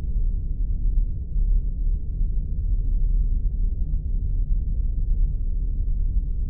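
Spaceship ambience sound effect: a steady, deep rumble with no high sounds above it.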